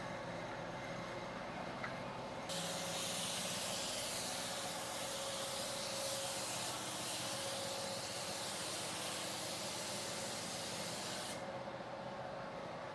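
Paint spraying onto a car body: a steady hiss that starts abruptly a couple of seconds in and cuts off near the end, over a constant background hum.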